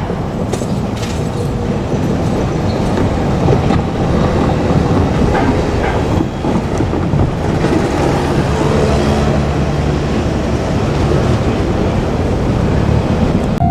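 A JR Kyushu passenger train running past, a loud steady rumble with a few sharp clicks of the wheels over the rail joints about a second in.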